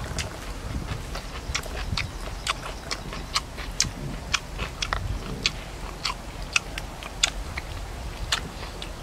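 A man chewing food noisily, with many short crunching clicks, a few a second and irregular.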